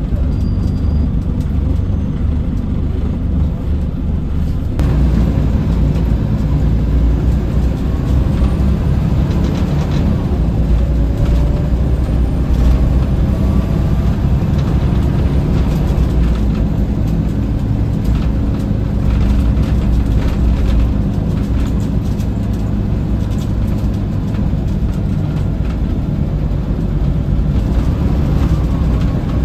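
Scania L94UB city bus under way, heard from inside: its rear-mounted diesel engine and drivetrain run steadily, with a step up in noise about five seconds in as it pulls harder. Faint rising whines come through now and then.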